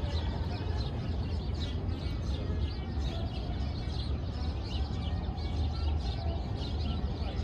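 Small birds chirping busily, many short high chirps, over a steady low city hum.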